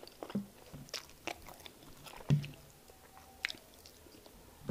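Close-miked mouth sounds of a person chewing fufu and egusi soup: irregular wet smacks and clicks, with a louder one about two seconds in.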